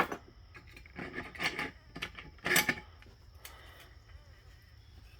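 Sharp metal clicks and short scrapes of a hand tool working a snap ring out of its groove in a 4L65 automatic transmission's clutch drum, in a few separate bursts over the first three seconds.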